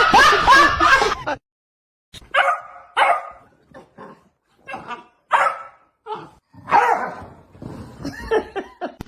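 A dog barking and yipping: about ten short, separate barks at an uneven pace. Before them, a loud stretch of wavering, pitch-bending vocal sound cuts off suddenly about a second and a half in.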